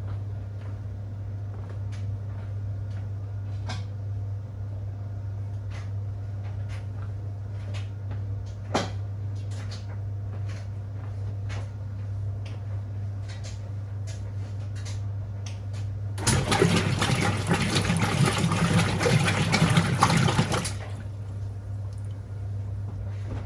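Whirlpool 3RLSQ8033SWD top-loading washing machine running with a steady low hum and scattered light knocks. About sixteen seconds in, water rushes into the tub for about four seconds, then cuts off.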